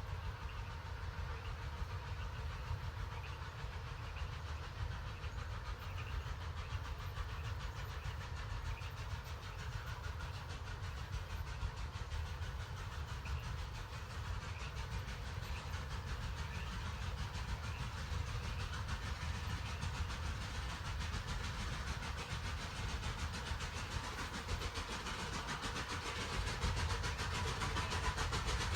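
A train with several locomotives working hard up a steep grade: a steady low rumble that grows louder over the last few seconds.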